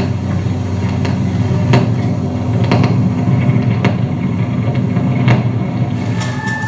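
Live electroacoustic noise music: a dense, steady low rumbling drone with sharp clicks or knocks sounding about once a second.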